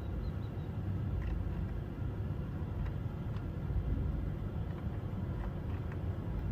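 Holden VZ Commodore's engine idling, a steady low rumble, with a few faint clicks over it.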